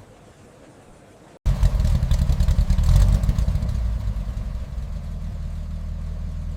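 Faint background, then a sudden start about a second and a half in: the Simca Ariane's engine running, loudest and roughest for the first couple of seconds, then settling to a steadier idle.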